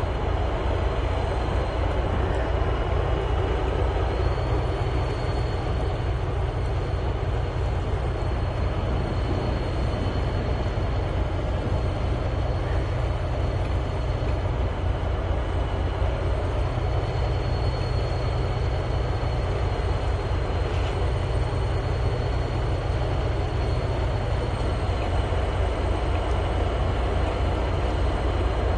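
Machinery running with a steady low rumble and faint, steady high-pitched whines.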